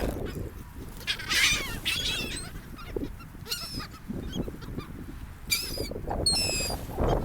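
Seagulls calling: several separate short, harsh calls a second or two apart, over a steady low rushing background.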